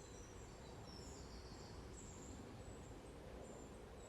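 Quiet woodland ambience: faint, scattered high bird chirps over a low steady background rumble.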